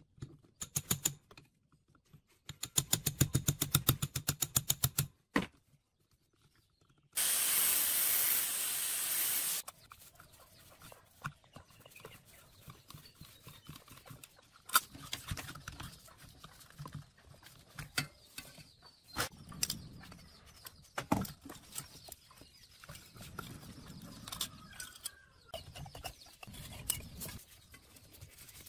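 A fast, even rattle for about two seconds, then a steady hiss of pressurised spray lasting about two and a half seconds, followed by scattered clicks and knocks of handling work.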